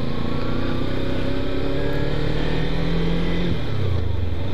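Kawasaki Ninja sport bike's parallel-twin engine pulling under steady acceleration, its note rising slowly, then dropping sharply about three and a half seconds in.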